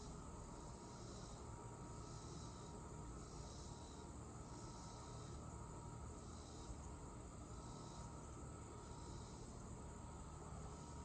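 Insects chorusing: a steady high-pitched drone with a pulsing chirp that repeats about every second and a half, over a low background rumble.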